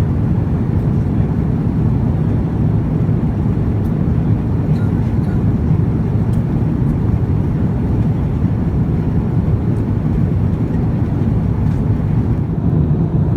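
Steady low rumble of cabin noise aboard an Airbus A350-900 airliner.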